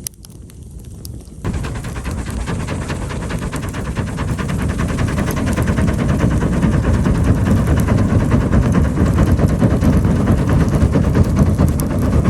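Birch-wood campfire burning hard: a dense run of crackles and pops over a steady low rumble, cutting in suddenly about a second and a half in.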